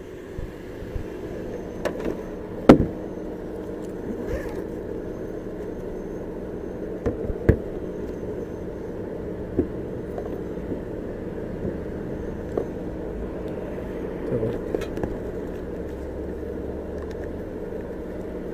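Steady hum of an idling vehicle, with scattered knocks and clicks from items being handled in a car during a search; the sharpest knock comes about three seconds in.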